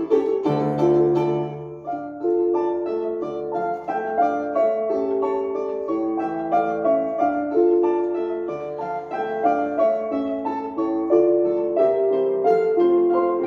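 Piano playing a flowing melody over chords, notes changing about every half second.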